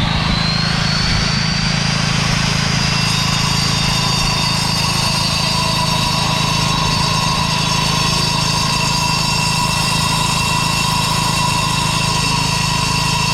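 Angle grinder with a diamond disc running at full speed, cutting a concrete road slab: a steady high whine that levels off right after spinning up, over a noisy hiss and a steady low hum.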